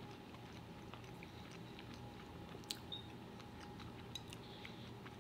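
Faint chewing of a mouthful of sushi, with small wet mouth clicks scattered through it and a sharper click about halfway through.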